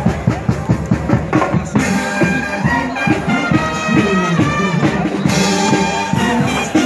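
Marching band playing: brass melody of trumpets and trombones over a steady drum beat, with the brass entering about two seconds in and some notes sliding downward near the end.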